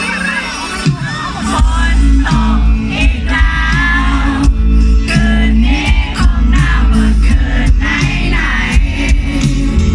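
A live pop-rock band playing a song through a PA system: drums, heavy bass and a voice singing.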